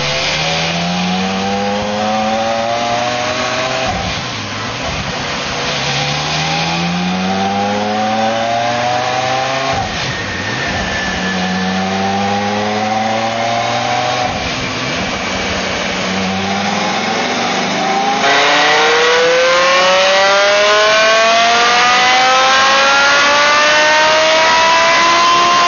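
Porsche Carrera GT's V10 engine with a Cargraphic aftermarket exhaust, revving under load on a dyno: the pitch climbs in several pulls with a drop between each, as through gear changes, then a final longer rising pull, louder, over the last third.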